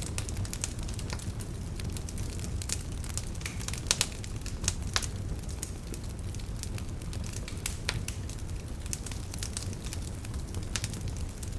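Wood logs burning in a fireplace: a steady low rumble of flame with irregular crackles and sharp pops, a few louder snaps about four and five seconds in.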